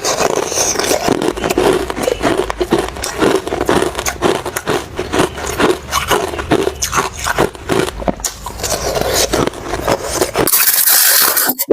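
Ice crunching: a dense run of irregular, crisp crunches several times a second. About ten and a half seconds in it switches abruptly to a brighter, hissier crunch.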